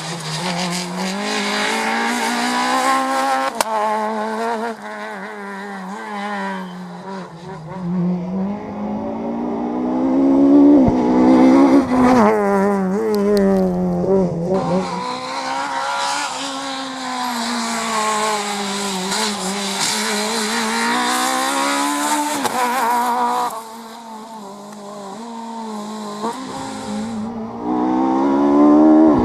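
Rally cars at full throttle on a stage, engines revving up and dropping repeatedly through gear changes and lifts, with tyre noise. The loudest pass comes about ten to twelve seconds in, and another car rises near the end.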